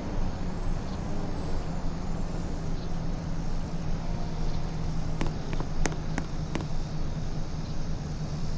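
A vehicle engine running steadily with a low hum, with a few sharp clicks or rattles from about five seconds in.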